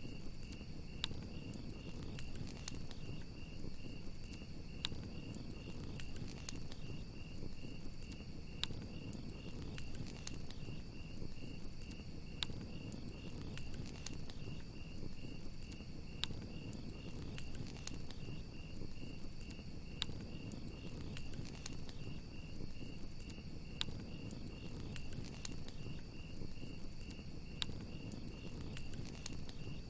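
A campfire crackling, with sharp scattered pops over a low steady rumble. Crickets chirp steadily throughout in a high, even, pulsing trill.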